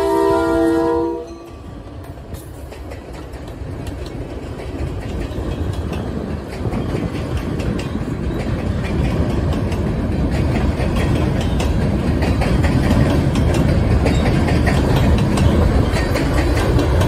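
Diesel locomotive's multi-note air horn sounding, cut off about a second in. Then a freight train of covered hoppers rolls across a steel truss bridge, its wheels rumbling and clattering and growing gradually louder.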